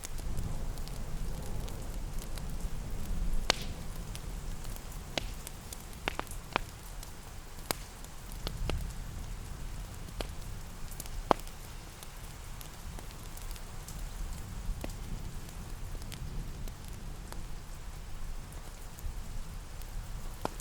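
Steady rain with a low rumble under it, and a wood fire crackling with irregular sharp pops, the loudest about 11 seconds in.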